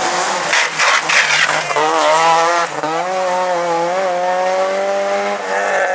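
Rally car engine running at high revs under full throttle, its note rising and then briefly breaking about three seconds in as it shifts gear, with tyre noise in the first second or so.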